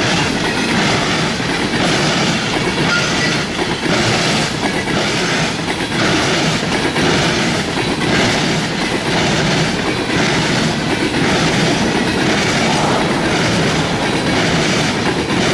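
CSX train rolling past close by, its wheels clacking over the rail joints in a steady rhythm about once a second.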